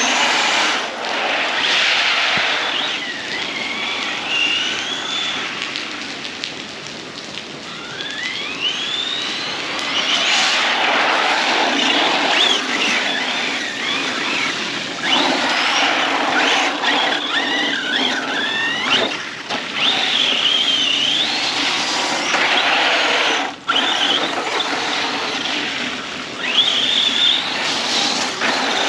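Arrma Big Rock 6S RC truck's brushless motor whining, its pitch rising and falling again and again with the throttle, over a steady hiss of the truck running through standing water.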